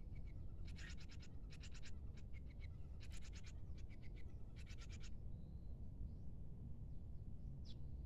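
A small prinia giving several bursts of fast, dry ticking calls, about a dozen ticks a second, over a low steady rumble.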